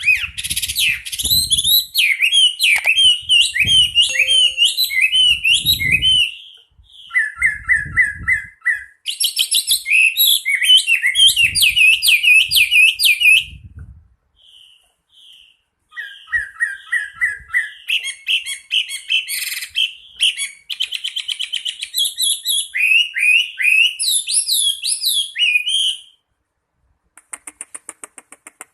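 Chinese hwamei singing a long, varied song of loud whistled phrases, each a rapid run of repeated rising and falling notes, broken by short pauses. Near the end a quieter rapid ticking follows.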